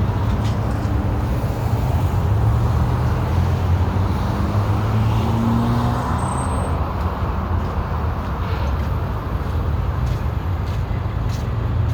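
BNSF diesel-electric locomotives idling with a steady low hum while the train stands waiting.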